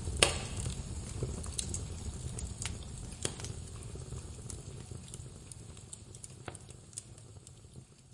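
Wood fire crackling in a fireplace: irregular sharp pops and snaps over a low rumble of flame, with one loud pop just after the start. The whole sound gradually fades quieter.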